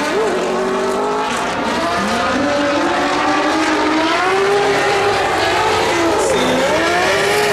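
Drift cars' engines revving hard on track, several engine notes rising and falling over a continuous hiss of screeching tyres.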